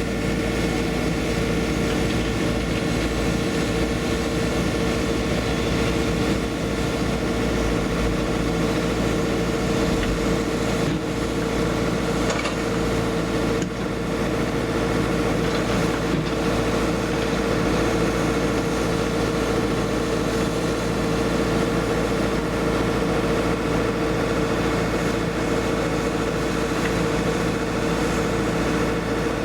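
Hyundai 140LC-7A excavator's diesel engine running steadily as the machine works, holding an even pitch with a steady tone sitting above it and a few faint knocks around the middle.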